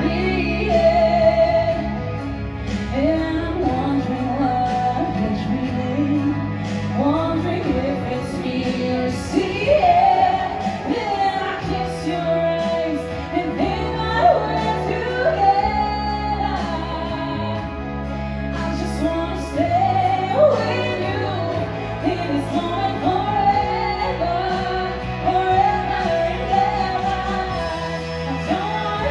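A singer performing a slow ballad over instrumental accompaniment, the voice gliding between long held notes above sustained chords.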